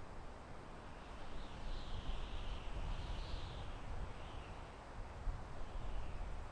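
Soft wind blowing through a forest: a steady rushing with a low rumble, swelling slightly about a second in.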